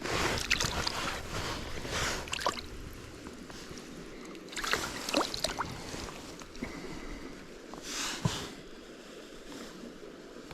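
Water sloshing and splashing in a small stream in three bursts, the first about two seconds long, with shorter ones near the middle and about eight seconds in, over steady flowing water.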